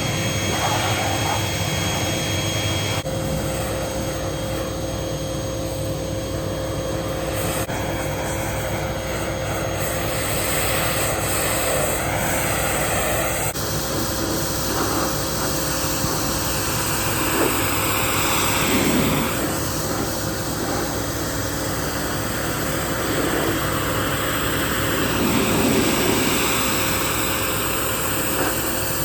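Steady vehicle engine and travel noise with a constant hum, changing abruptly a few times.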